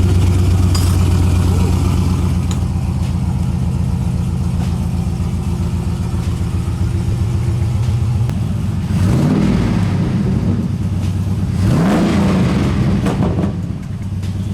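GMC Sierra pickup's engine idling loud through freshly installed headers and a MagnaFlow exhaust without a muffler, revved twice, about nine and twelve seconds in, each rev rising and dropping back to idle.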